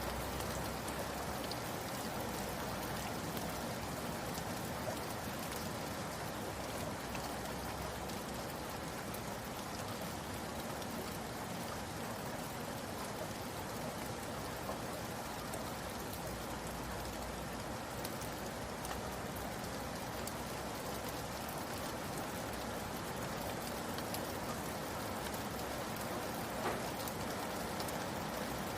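Steady rainfall pattering on a surface, an even hiss of drops with scattered individual drop ticks and one slightly louder tap near the end.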